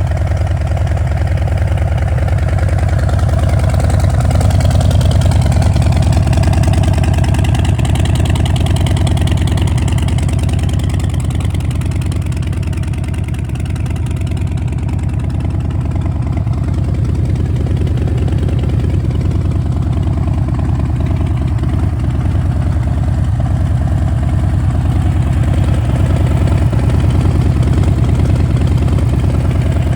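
Harley-Davidson Low Rider S's Milwaukee-Eight 114 (1868 cc) V-twin running at idle through a Vance & Hines sports exhaust, a steady deep exhaust note that swells a little and eases off now and then.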